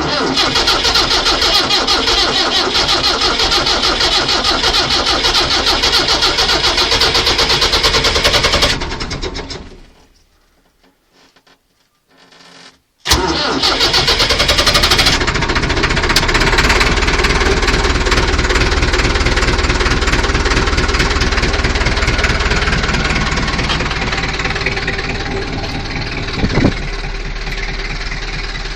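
Massey Ferguson 265S diesel tractor engine being cold-started in freezing weather. It cranks for about nine seconds without catching and dies away. After a short pause it is cranked again, catches within a couple of seconds and runs on steadily, easing gradually toward idle.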